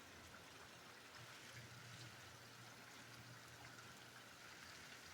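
Faint, steady rain: a soft even hiss, with a faint low hum beneath it from about a second in.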